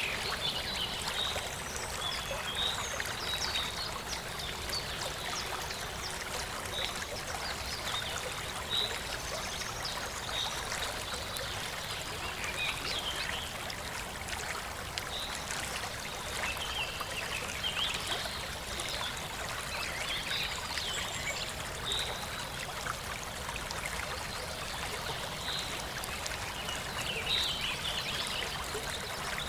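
Steady rush and trickle of water from a small forest waterfall, with scattered short high chirps every second or two.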